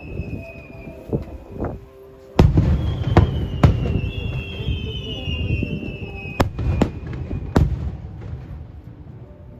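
Aerial fireworks shells bursting: a loud boom about two and a half seconds in, then several more sharp bangs over the next five seconds, with high whistling tones slowly falling in pitch between them.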